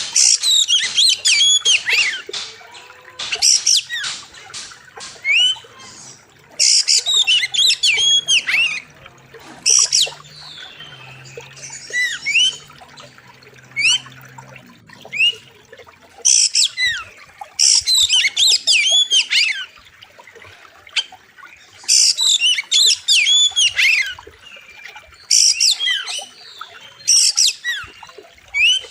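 Oriental magpie-robin singing loudly, in bouts of one to two seconds of fast whistled and scratchy phrases with rising and falling notes, separated by short pauses.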